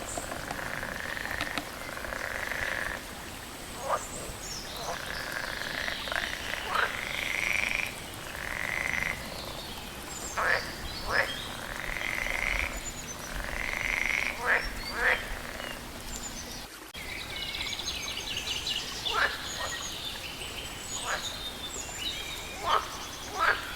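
Several frogs croaking: short, sharp calls repeated irregularly, mixed with longer calls about a second long.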